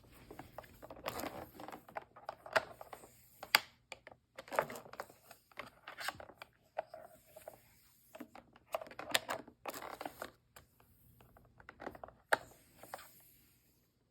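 Vacuum power cord being wound by hand onto the cord hooks of a Bissell upright vacuum: irregular scraping and rustling of the cord against the plastic body, with a few sharp clicks.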